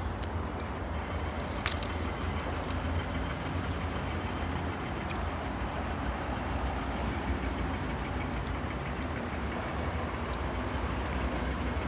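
Steady low rumble of a moving vehicle, with a few faint clicks and rattles.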